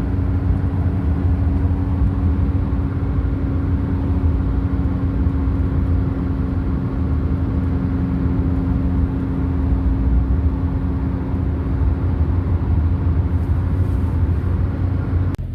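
Steady engine and road noise of a car driving, heard from inside the cabin: a low rumble with a steady hum.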